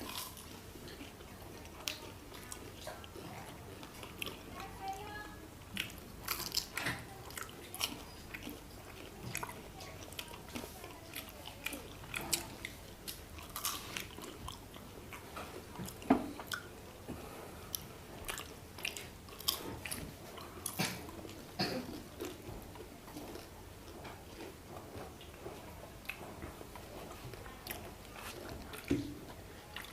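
People chewing and biting into syrupy jilapi: irregular wet mouth smacks and crisp crunches, with a louder one about 16 seconds in.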